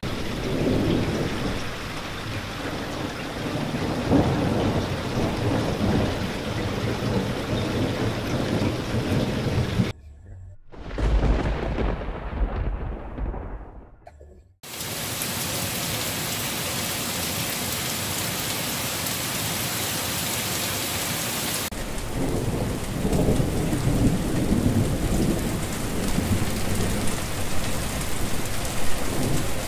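Heavy rain falling steadily with thunder rumbling low beneath it. About ten seconds in the rain sound drops away to a deep rumble of thunder that dies out. A steady, hissing downpour then takes over, and low thunder rumbles come back under the rain near the end.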